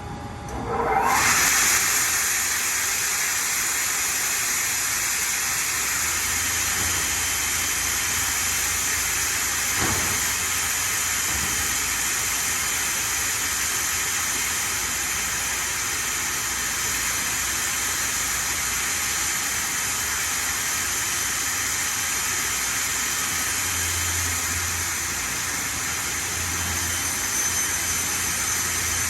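Hendrick HM3 3200 CNC router: the spindle spins up with a rising whine about a second in, then runs with a steady high whine and hiss as the bit cuts plywood.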